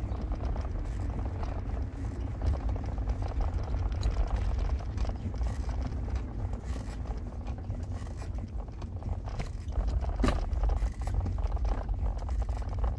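Car driving: a steady low rumble of engine and road noise, with one short sharp knock about ten seconds in.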